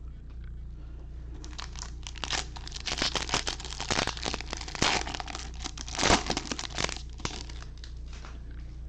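A foil trading-card pack wrapper being torn open and crinkled by hand, a run of crackling rustles for about six seconds, loudest near the end.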